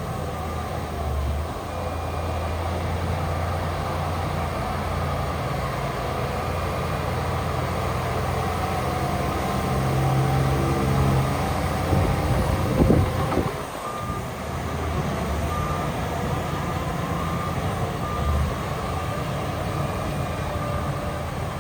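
Diesel engine of heavy earthmoving machinery running steadily under load, with a reversing alarm beeping over it. There is a brief louder rush of noise about thirteen seconds in.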